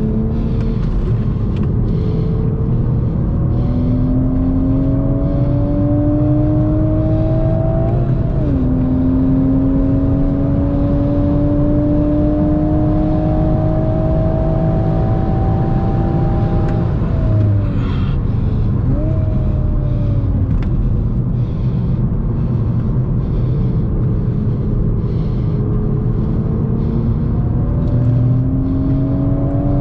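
Toyota GR Supra's turbocharged 3.0 straight-six with manual gearbox, heard from inside the cabin under hard acceleration on track. The engine note climbs, drops at a gear change about eight seconds in, and climbs again in one long pull. Around seventeen seconds it falls away as the car slows, with a brief rise and fall of revs, then climbs again near the end, all over heavy road and tyre rumble.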